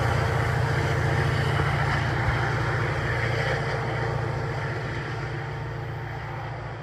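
NJ Transit train running past with a steady low hum and rumble, which fades from about four seconds in as the train moves away.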